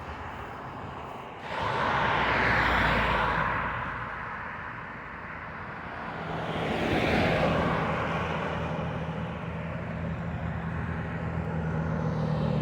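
Motor vehicles passing by, one swelling up about two seconds in and another around seven seconds in, with a steady engine hum coming in from about six seconds on.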